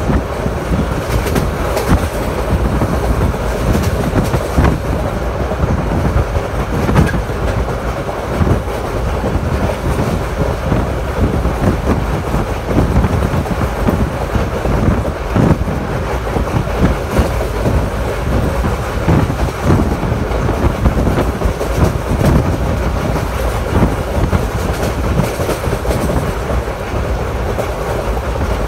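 Passenger train running along the track, heard from on board: a steady rumble of wheels on rails with irregular clacks over the rail joints.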